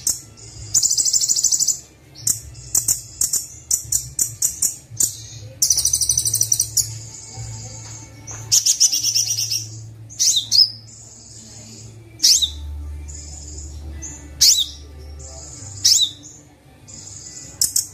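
Kolibri wulung sunbird singing a loud, high-pitched song of rapid trills and buzzy bursts, then short sharp upward-sweeping notes every second or two in the second half.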